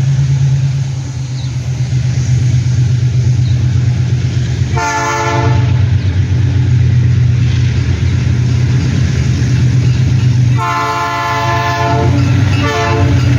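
GE U20C diesel locomotive running steadily as its freight train rolls by. Its horn sounds a short chord about five seconds in, then a longer blast near eleven seconds, followed by a brief toot.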